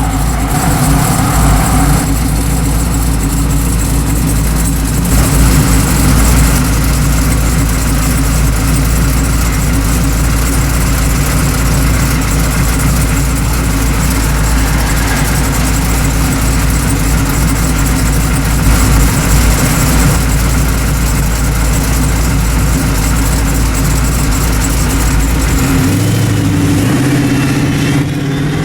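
Twin-turbocharged Dodge Challenger SRT8's Hemi V8 running steadily. Its tone shifts a couple of seconds before the end.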